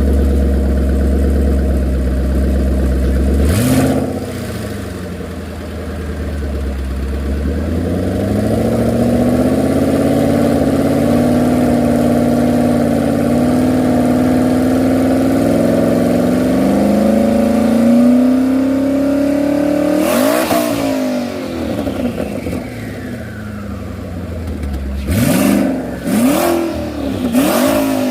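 Twin-turbocharged Ford Coyote 5.0 V8 in a Mustang, running low and steady at first, then revving. It makes one long pull with the engine note climbing steadily for about ten seconds. A sharp rush of noise comes about twenty seconds in, then three quick revs near the end, each with a short sharp burst of noise.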